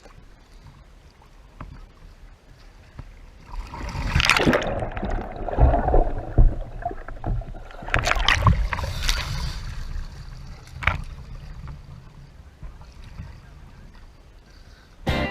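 Kayak paddle strokes splashing in river water: quiet water at first, then several loud, irregular splashes from about four seconds in to about eleven seconds, dying back down near the end.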